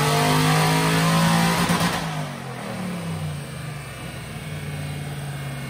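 Paxton-supercharged 2008 Ford Mustang GT's 4.6-litre three-valve V8, breathing through shorty headers and Flowmaster mufflers, at full throttle at the top of a dyno pull. About two seconds in the throttle closes: the sound drops sharply and the revs fall away, then the engine runs steadily at low revs as the dyno rollers slow.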